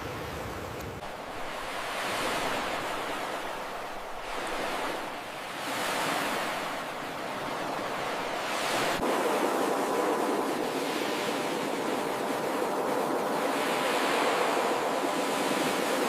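Ocean surf breaking and washing on a beach, swelling and easing every couple of seconds and growing fuller in the second half.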